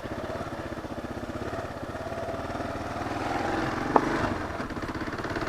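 Kawasaki KLR 650's single-cylinder four-stroke engine running steadily at a low trail pace, with a single sharp knock about four seconds in.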